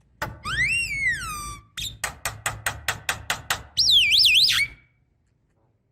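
Javan myna calling: a long whistle that rises and falls, a quick run of about nine sharp clicking notes, then a short wavering whistle, before it falls silent near the end.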